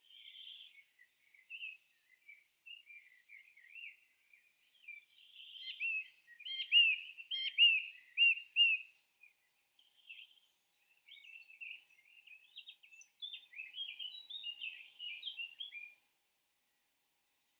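A bird singing: quick chirps and warbles, loudest about six to nine seconds in as a run of clear arched notes, then a busier twittering passage that stops shortly before the end.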